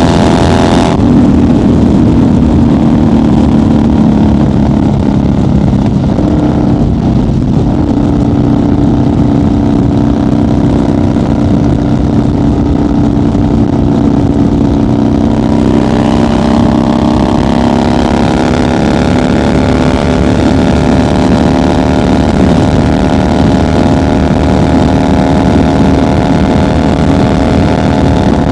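1990 Harley-Davidson FXR's Evolution V-twin running steadily at highway cruising speed. The engine note eases slightly at first, then climbs gently past the middle as the bike picks up a little speed.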